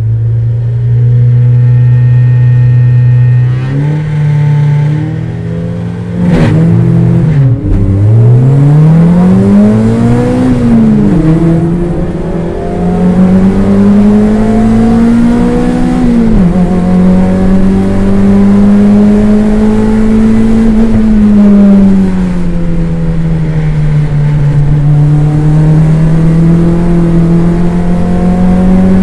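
Toyota MR2 race car's engine heard from inside the cockpit. It is held at steady revs at the start, then the car launches and the engine note climbs in rising sweeps broken by gear changes. It then runs at high, fairly steady revs, easing briefly and picking up again near the end.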